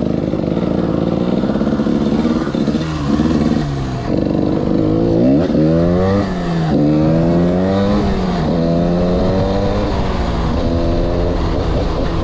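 Yamaha DTR 125 two-stroke single-cylinder engine under way. It runs fairly even at first, then from about four seconds in the revs climb and drop back several times as it shifts up through the gears, before holding steadier.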